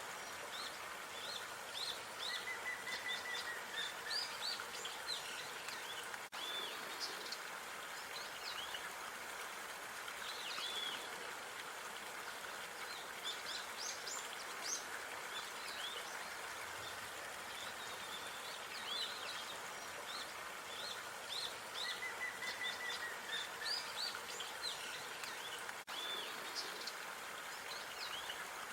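Small birds chirping and twittering in quick short notes, with a longer held note twice, over a steady background hiss of outdoor park ambience.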